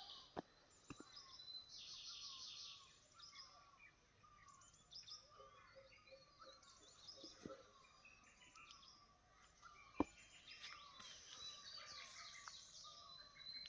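Faint chorus of small birds, many overlapping chirps and short trills. A few soft clicks, the sharpest about ten seconds in.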